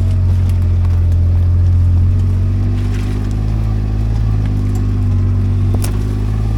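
Vehicle engine running steadily while driving, heard from on board, with a low hum that wavers slightly in pitch. A single sharp click near the end.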